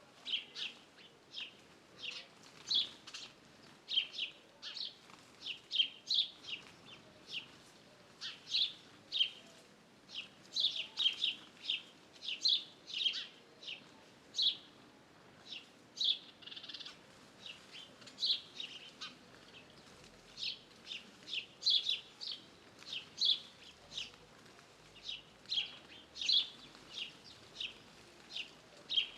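Small birds chirping in a dense chorus: short, high chirps following one another several times a second, with no pause.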